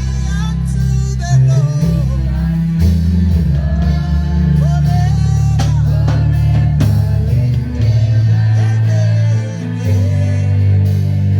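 Live worship music: a band with bass, guitar and drums playing under sung melody lines.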